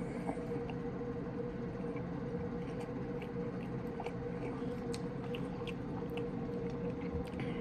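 Small wet clicks and smacks of chewing and of fingers pulling apart air-fried chicken breast, over a steady low hum.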